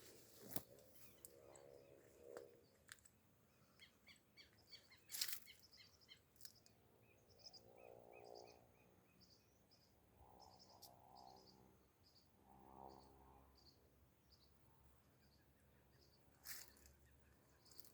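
Faint birdsong: runs of short, high chirps repeated several times a second, with a few lower calls mixed in. A few sharp clicks stand out, the loudest about five seconds in.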